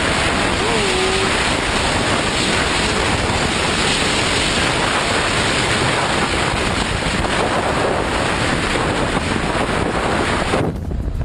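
Loud, steady rushing wind noise buffeting the microphone. Near the end the hiss thins out and the sound turns choppy.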